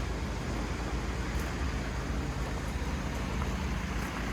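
Vehicle engine idling with a steady low hum, under a constant wash of outdoor background noise.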